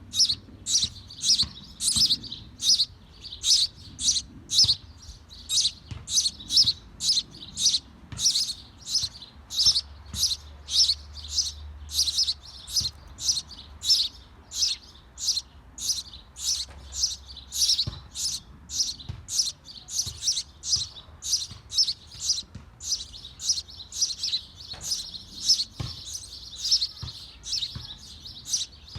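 A small bird chirping over and over in a steady rhythm, about two short high chirps a second, without a break.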